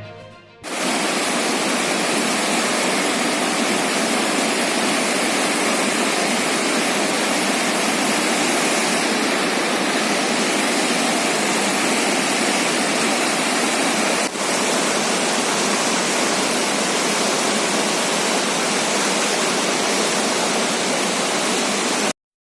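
Swollen Gaula river in flood, its water rushing with a steady, loud noise; a brief break comes about fourteen seconds in, and the sound cuts off abruptly near the end.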